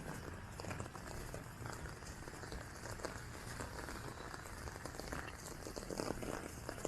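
Light drizzle outdoors: a steady wet hiss scattered with small raindrop taps, a little busier about five to six seconds in.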